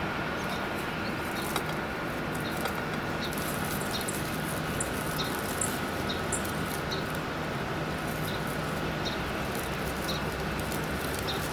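Dry wheat heads being picked and rubbed apart by hand, giving small scattered crackles and ticks as husks break and berries fall, over a steady background hum.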